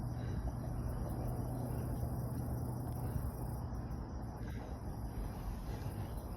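Insect chorus in a wetland: a steady high-pitched drone whose highest part fades away about three and a half seconds in, over a low steady rumble.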